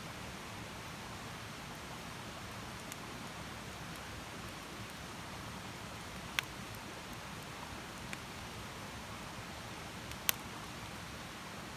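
Wood campfire burning with a steady hiss, broken by a few sharp pops from the burning wood, the loudest about ten seconds in and another about six seconds in.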